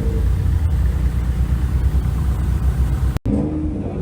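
Car engine running with a steady low rumble, cut off abruptly about three seconds in.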